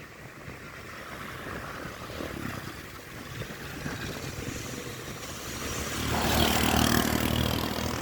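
Motor vehicle running, its engine and road noise growing louder about six seconds in as a low engine note comes up.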